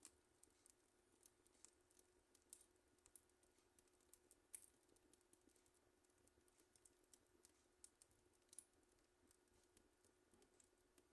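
Wood fire crackling faintly: irregular small pops and snaps, a couple of them sharper.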